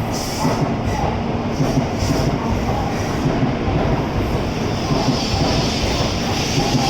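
N700S Shinkansen train moving slowly along the platform, its wheels rumbling and knocking on the track. A higher hiss builds about two-thirds of the way through.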